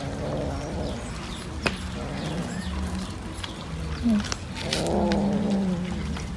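Cat vocalising with drawn-out caterwauling calls, the longest and loudest about five seconds in, with a few sharp clicks.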